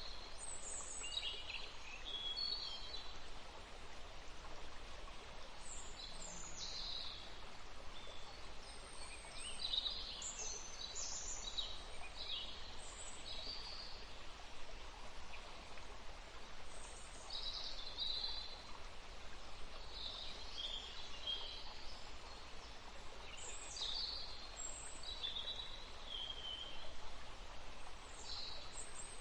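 Songbirds chirping and singing in short, high phrases, many of them sliding down in pitch, recurring every second or two over a steady background hiss of outdoor ambience.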